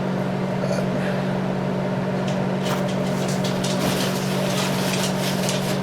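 Steady low hum of a running machine, with short scraping and rubbing sounds from about halfway through as greasy mixer gear parts are wiped and brushed clean.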